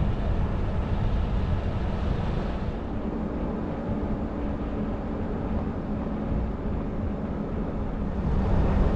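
Van driving slowly over a rough dirt road: a steady engine drone mixed with tyre and road noise.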